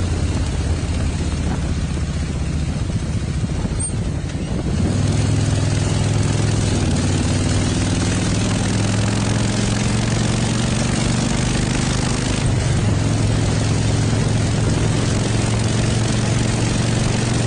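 Motorcycle engine running under way, over a steady rush of noise. Its note steps up about a quarter of the way in and climbs again shortly after, with a brief dip about two-thirds through.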